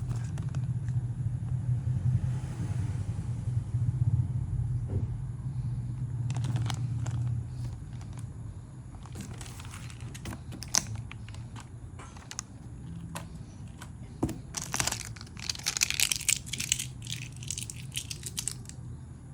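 Packaging being handled during an unboxing: crinkling and crackling of plastic or foam wrap, with scattered clicks and knocks, busiest near the end. A steady low hum runs through the first several seconds and then fades.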